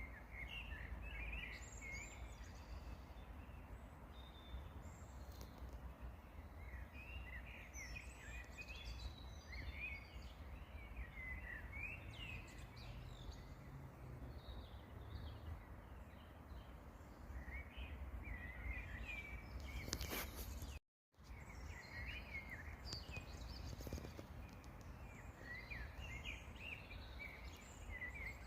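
Songbirds singing outdoors in short twittering phrases that come every few seconds, over a steady low rumble. The sound cuts out completely for a moment about two-thirds of the way through.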